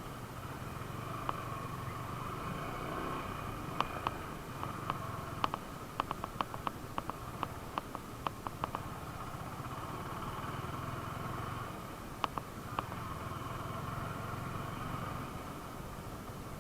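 Motorcycle engine running steadily, with a series of sharp clicks in the middle and a few more later.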